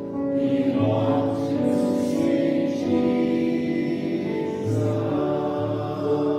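Slow hymn music: held chords over a low bass note, changing every second or two.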